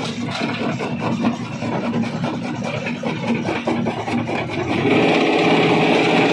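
Stone crusher running: a steady engine drone with rock cracking and grinding in many short knocks. Near the end a louder, higher engine note comes in.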